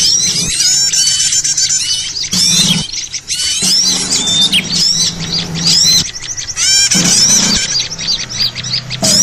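Many small songbirds chirping and twittering at once in a dense, unbroken chorus of quick rising and falling notes: a noisy lure recording used to draw small birds in for trapping. A faint steady low hum lies underneath.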